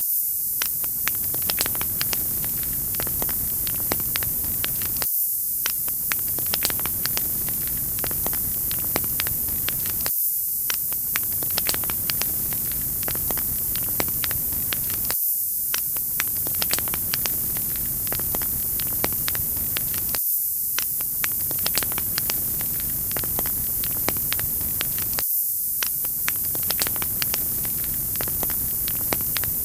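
Wood fire crackling: frequent small pops over a steady hiss, with a brief dip about every five seconds where the recording loops.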